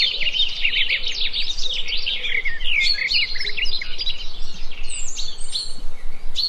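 A chorus of small songbirds singing and chirping over one another in quick, overlapping high-pitched calls and trills.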